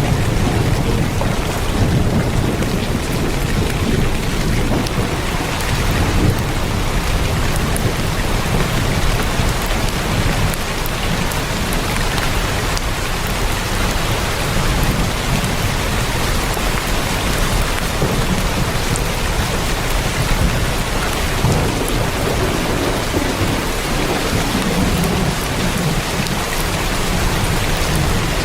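Heavy rain falling on a tin roof: a steady, even hiss with a low rumble underneath.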